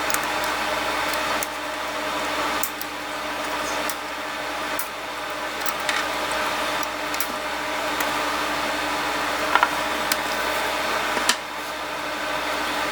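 Sharp clicks of flush cutters snipping the leads of newly fitted capacitors on a circuit board, scattered irregularly, two of them louder near the end, over a steady whirring background noise with a constant low hum.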